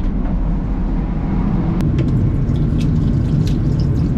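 Steady low rumble of a high-speed train running at speed, heard inside its washroom, with a faint click about two seconds in. Toward the end, water from a tap runs into the sink.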